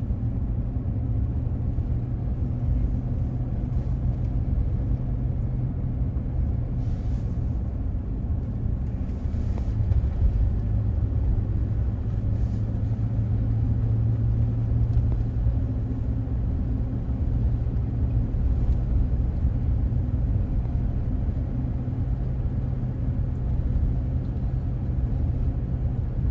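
A car driving on a mountain road, heard from inside the cabin: steady engine and tyre drone with a low hum, and a few faint taps about a third of the way in.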